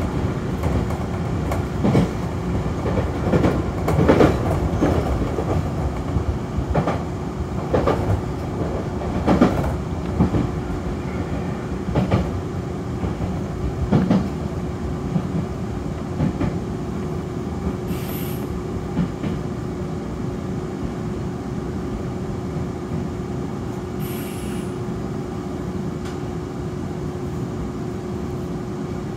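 Nankai electric commuter train running on the Koya Line, its wheels clacking over rail joints over a steady hum, with a few short high falling squeals. The clacks thin out and the sound eases a little in the second half.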